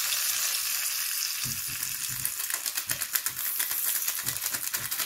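Curry powder, garlic and hot pepper sizzling in hot oil in a pot as the curry is toasted, with crackling spatter picking up in the middle. A spoon stirring in the pot knocks faintly underneath.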